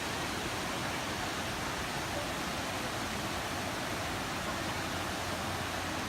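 Waterfall: a steady rush of falling water, starting suddenly at a cut.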